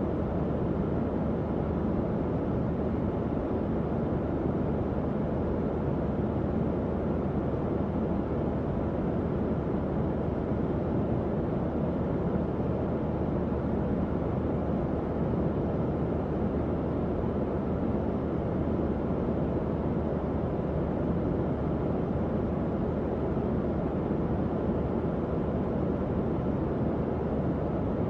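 Tower fan running steadily: an even, low whooshing air noise with a faint low hum underneath.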